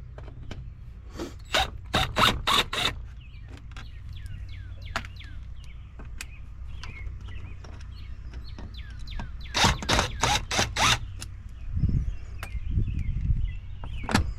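Two clusters of about five quick, harsh bursts each from work on a scrap dishwasher, with small birds chirping throughout.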